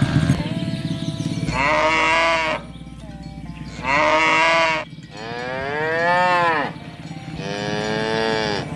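Herd of cattle mooing: about five long calls one after another, some arching up and down in pitch, as the cows call to one another.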